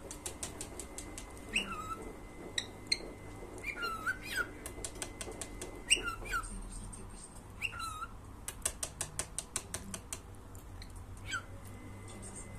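Cockatiel giving short whistled chirps that glide downward in pitch, about half a dozen of them, mixed with runs of rapid sharp clicks near the start and again about two-thirds of the way in.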